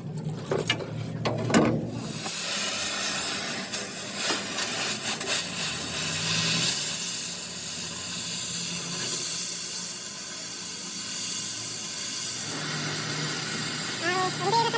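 A steady hiss, with a few knocks in the first two seconds; a voice starts near the end.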